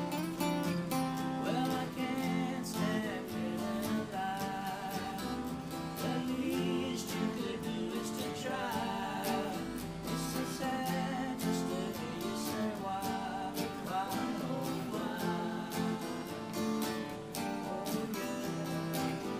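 Two acoustic guitars playing together, strumming chords in a steady rhythm.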